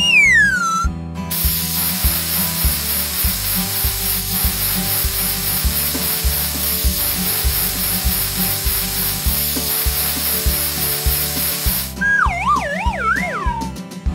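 Cartoon workshop sound effect: a steady hissing, rubbing tool noise of about ten seconds, over a background music loop. Wobbling, falling whistle glides like a cartoon siren come at the start and again near the end.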